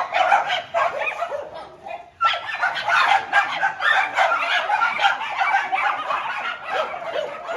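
Many dogs barking at once in a dense, overlapping chorus: two groups of dogs barking at each other across a wall. The barking dips briefly about two seconds in, then starts up again.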